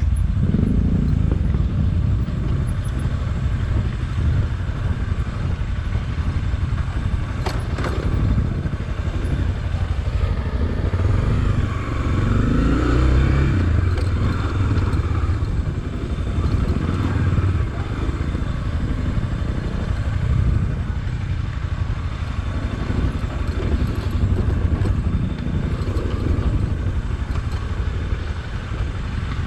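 Honda XRE300 single-cylinder motorcycle engine running steadily while riding over a rocky trail, with stones clattering and scraping under the tyres.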